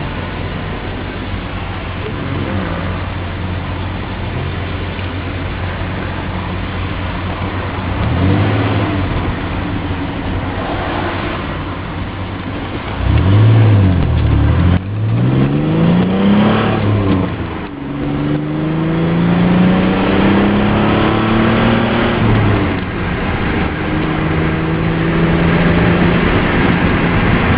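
Pontiac Fiero SE's engine heard from inside the cabin while driving, revved out toward about 5,000 rpm. The note is fairly even for the first dozen seconds, then swoops down and up in pitch and drops away sharply, and is followed by two long steady climbs in pitch.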